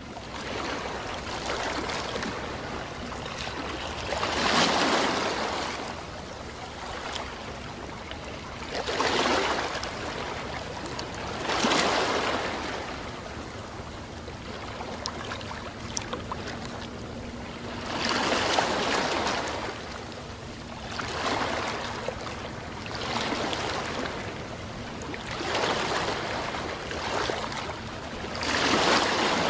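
Small waves washing onto a sandy beach: a steady hiss of surf that swells and ebbs every few seconds.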